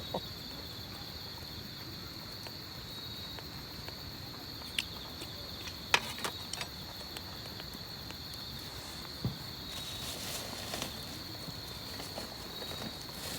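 Crickets chirping steadily in a continuous high drone, with a few sharp clicks about five and six seconds in.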